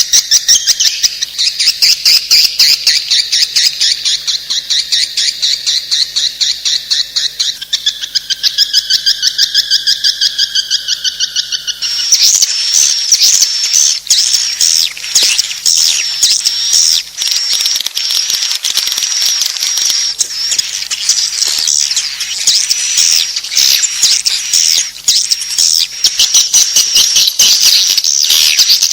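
Swiftlet calls: rapid, repeated high twittering chirps, changing about twelve seconds in to a denser, steadier high trill. A faint low hum runs underneath and cuts in and out.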